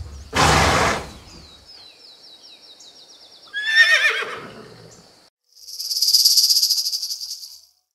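A pony gives a loud breathy blast near the start, then whinnies with falling pitch just before halfway, over a thin high trill. From about three-quarters of the way in, a snake makes a dry, rapidly pulsing rattling buzz for about two seconds.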